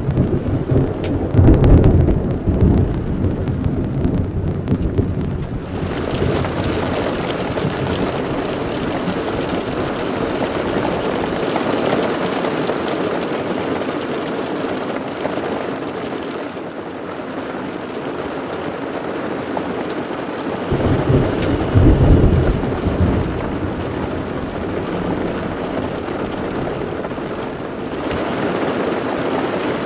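Steady rain falling on a motorhome's roof and skylight, heard from inside the cabin. Low rolls of thunder come at the very start and again about 21 seconds in.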